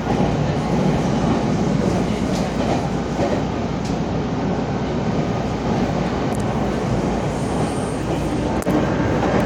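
Nagoya subway train running on its rails, heard from on board: a steady rumble of wheels and running gear with a few faint clicks from the track.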